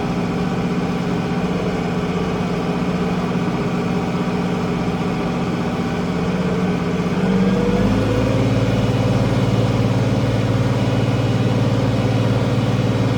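International 1566 tractor's six-cylinder turbo diesel running steadily; about eight seconds in its note changes, going deeper and a little louder.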